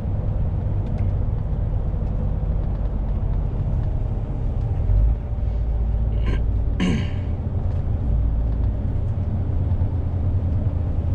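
Steady low rumble of a lorry's engine and road noise heard from inside the cab. A short low thump comes about five seconds in, and a brief throat-like sound, falling in pitch, from the driver about seven seconds in.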